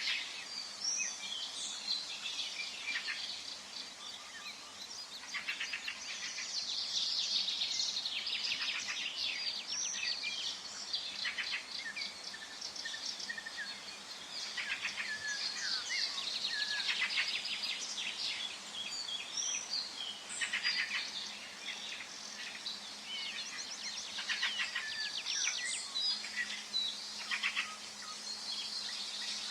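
Forest birdsong: several birds chirping and trilling at once, one song overlapping the next without a break, over a faint steady background.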